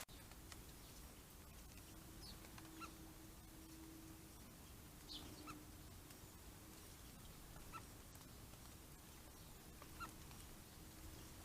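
Near silence with about five faint, short bird chirps spread through the stretch, and a faint steady low hum that comes and goes.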